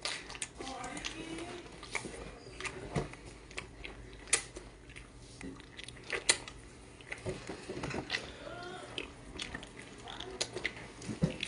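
Wet chewing and biting on raw octopus held to the mouth, with scattered sharp smacks and clicks.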